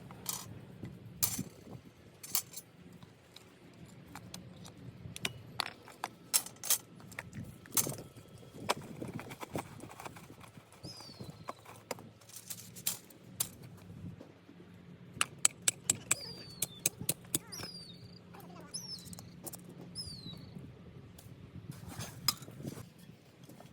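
Scattered light clicks, clinks and knocks of camping gear being handled during camp setup. From about halfway through, several short, high, falling chirps, typical of a bird calling.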